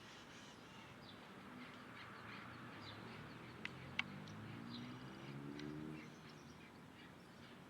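Small birds chirping, with many short high calls. Two sharp clicks come close together just past the middle, and a low murmur swells and fades under the chirps over the middle few seconds.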